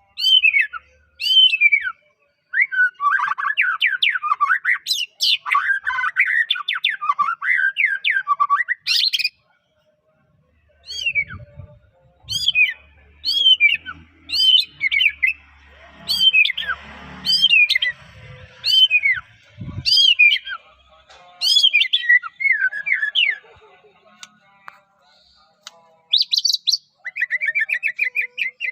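White-rumped shama (murai batu, Medan strain) in full song. It gives rapid warbling phrases, then a run of loud, sharp whistles that sweep downward, repeated about once a second, with a short pause partway through.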